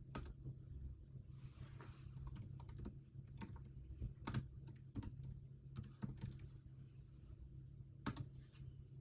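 Typing on a computer keyboard: irregular key clicks in short runs and pauses, over a steady low hum.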